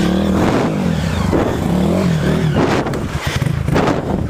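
Off-road dirt-bike engines revving up and easing off over and over, the pitch rising and falling, as riders throttle through a hard, obstructed section of trail.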